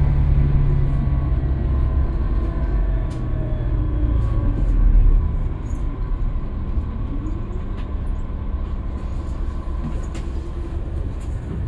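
Scania K320UB city bus's five-cylinder diesel engine and drivetrain running under way, a low rumble that drops off about halfway through as the engine eases off. Light rattles and clicks sound over it.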